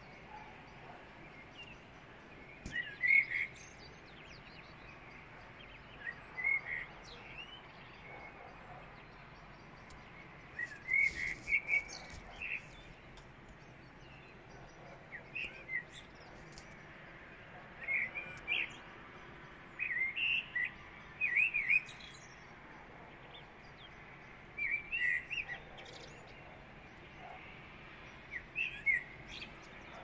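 Songbirds singing in the pre-dawn dark: short chirping phrases every few seconds, over a steady faint background hiss.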